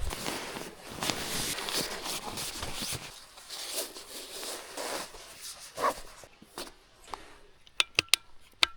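Camping gear being handled: a few seconds of rustling and scraping, then quieter handling, and a quick run of sharp clicks and clinks near the end.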